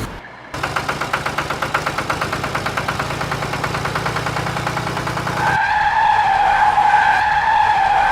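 Vehicle engine sound chugging at a rapid, even rhythm over a low hum. About five and a half seconds in, it gives way to a high, wavering whine that lasts until near the end.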